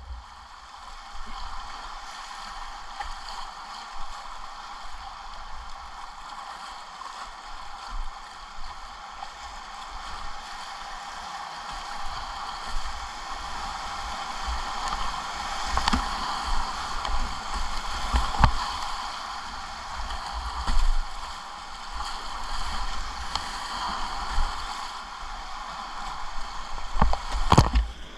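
Whitewater rapids rushing steadily, swelling louder midway, with scattered low thumps and a sharp knock near the end.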